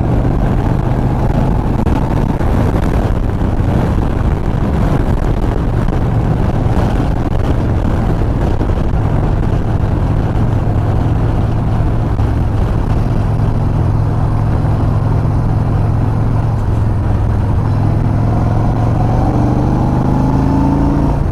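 2020 Yamaha XV950R's air-cooled V-twin running at a steady road speed, under heavy wind rush on the helmet microphone. In the last few seconds the engine pitch rises as it accelerates.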